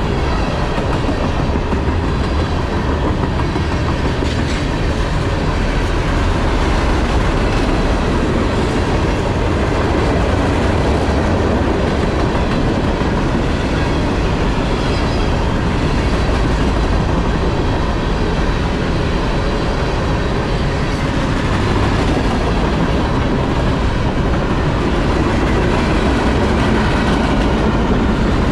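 Norfolk Southern freight train rolling steadily past, its steel wheels rumbling and clacking over the rail.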